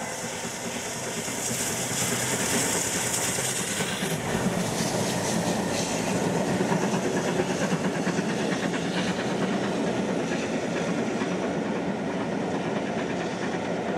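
Steam-hauled passenger train passing at speed, its wheels clattering steadily over the rail joints, with a high hiss for the first few seconds.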